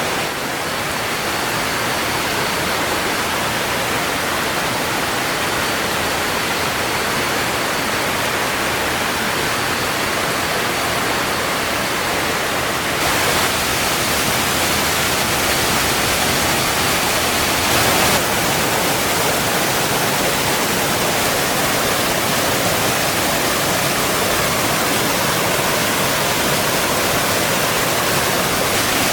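Steady rush of flowing water, its tone shifting slightly about 13 seconds in, with a brief louder surge around 18 seconds.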